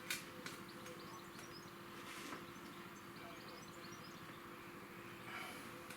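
Quiet background with a steady low hum and faint high chirps, broken by a few soft clicks and swishes from a sticker being handled and peeled on a wheel rim.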